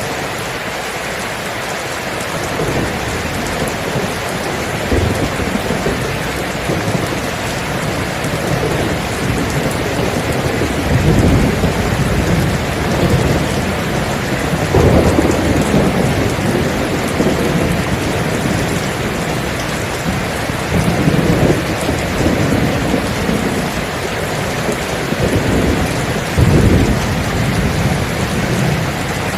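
Steady heavy rain with thunder rumbling repeatedly, the low rolls swelling and fading every few seconds from about a third of the way in.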